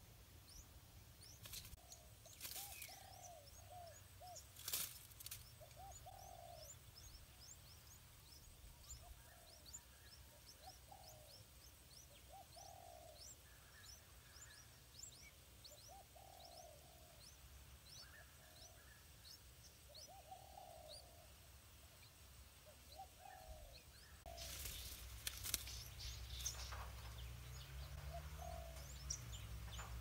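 Faint bird calls: a low call repeated every second or two, over many faint, short, high chirps. A louder noise joins from a little after two-thirds of the way in.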